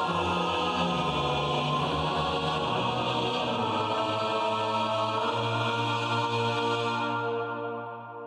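Layered chanting voices holding long steady notes like a choir, fading out near the end.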